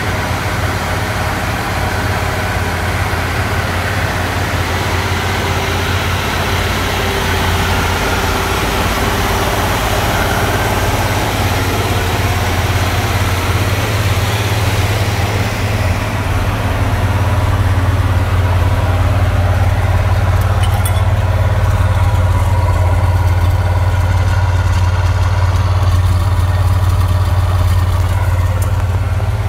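A 1961 Pontiac V8 with three two-barrel carburettors idling steadily on its first run. About halfway through, the sound gets deeper and a little louder.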